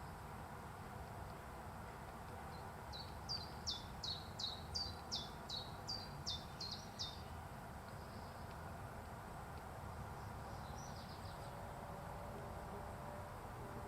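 A small songbird singing a quick run of about a dozen high, downslurred notes, about three a second, with a fainter short phrase a few seconds later, over a steady background hiss.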